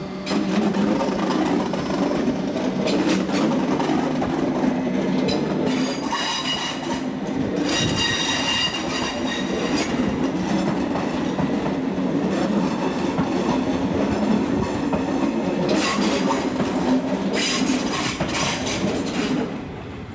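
DB Regio class 425 electric multiple unit rolling past with a steady running noise. Its wheels give out bouts of high-pitched squeal, one about six seconds in and another near the end.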